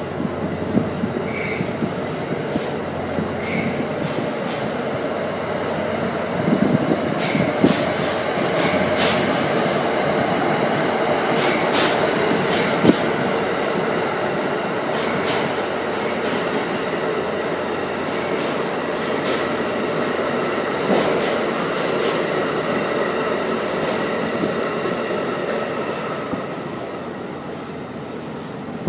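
Amtrak passenger train pulling out past the platform: a steady rumble with wheels clicking over the rails and a thin high squeal. It grows louder, then fades over the last few seconds as the train moves away.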